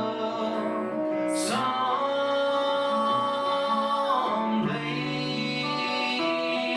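Live country song: voices singing long held notes over acoustic guitar.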